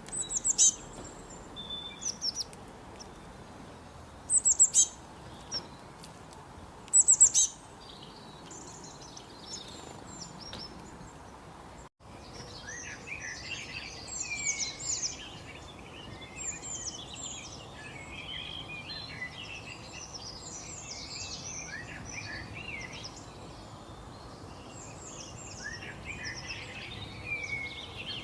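Songbirds chirping. First come a few loud, sharp chirps that drop quickly in pitch, spaced a couple of seconds apart. After a sudden break about twelve seconds in, a busy chorus of many overlapping chirps and warbles follows.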